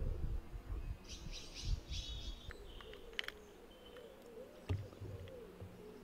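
Woodland birds calling: a rapid run of high chirping notes about a second in, then fainter calls, with a few sharp clicks and low knocks.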